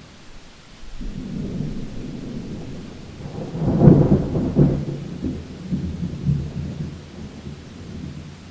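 Thunder rolling during a rainstorm, with rain falling throughout. The rumble builds about a second in, has its loudest clap around four seconds in, then rolls away over the next few seconds.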